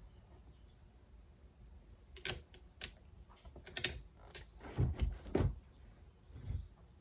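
Scattered sharp clicks and knocks of metal fork parts being handled and pressed into place to seat a new bushing or seal in a Yamaha XJ900 Seca front fork, with a few duller thumps in the second half.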